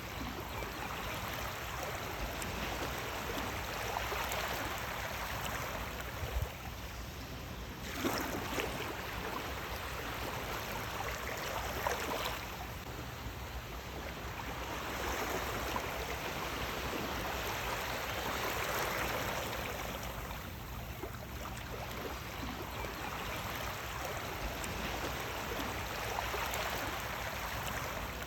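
Sea waves washing in and out, the rush of water swelling and easing every few seconds.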